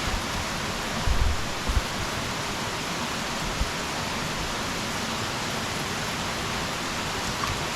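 Steady, even rush of heavy monsoon rain together with a swollen, flooding mountain stream, with a few short low thumps a little over a second in.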